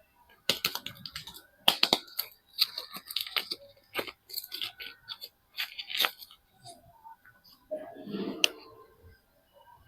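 Soap packaging being unwrapped by hand: a quick run of crackles and clicks for about six seconds, then a fuller rustle about eight seconds in.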